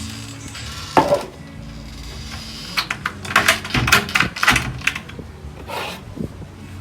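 Dry dog food clattering in a bowl: a quick, irregular run of sharp clicks for about two seconds in the middle, after a single sharp knock about a second in.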